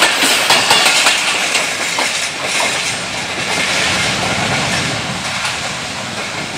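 Passenger train coaches rolling past, wheels clicking over the rail joints, then the sound fading as the tail of the train draws away.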